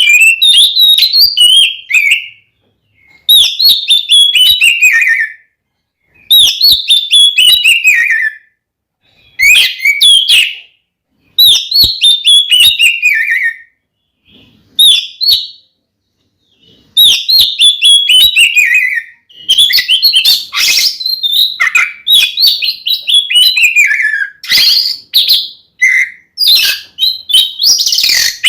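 Oriental magpie-robin (kacer) singing a loud fighting song in the full, open 'ngeplong' style. It repeats phrases of about two seconds, each a quick run of notes sliding down in pitch, with short pauses between. Past the middle the song runs on almost without a break and mixes in harsher notes.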